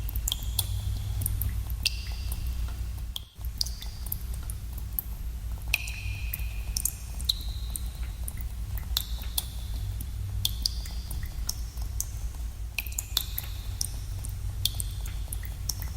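Water drops falling into a cave pool, with frequent irregular drips, many ringing as short pitched plinks. A steady low rumble runs under them, and the sound drops out for a moment about three seconds in.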